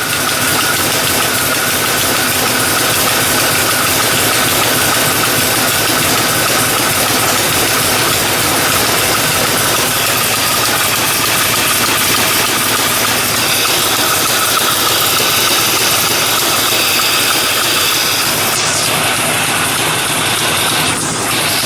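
Engine idling steadily with a ticking running through it.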